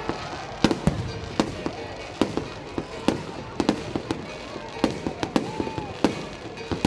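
Aerial fireworks going off in an irregular string of sharp bangs, more than a dozen over a few seconds.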